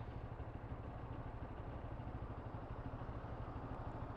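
Motorcycle engine idling: a steady, fast, even low pulse.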